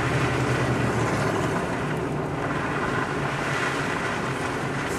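Steady in-cabin driving noise from a vehicle on a snowy road: an even rush of tyre and wind noise over a low engine hum, the hum easing off about a second in.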